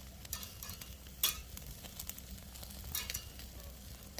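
Lamb and green onions sizzling over an oak-wood fire, with a steady low crackle and scattered sharp pops, the loudest about a second in and another near three seconds.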